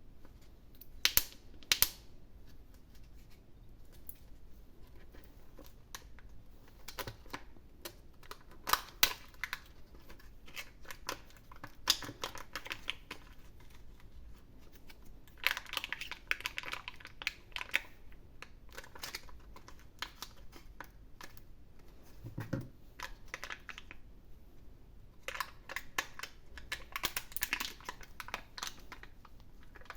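Hands unwrapping and opening chocolate surprise eggs: wrapper crinkling in patches, with scattered sharp clicks and taps of plastic and foil.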